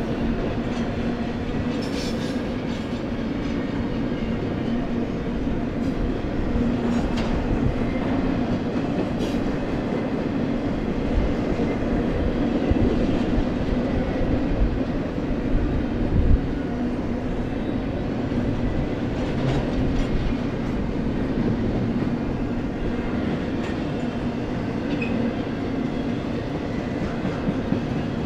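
Union Pacific freight train rolling past: a steady rumble of the cars on the rails, with scattered sharp clicks of wheels over rail joints.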